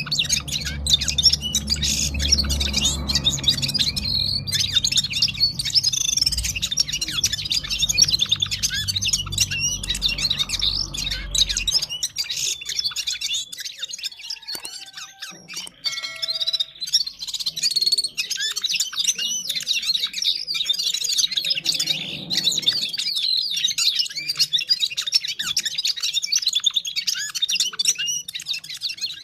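Gulsar songbird singing a long, fast, continuous twittering song of high chirps and trills, barely pausing. A low background rumble sits under it and cuts off about halfway through.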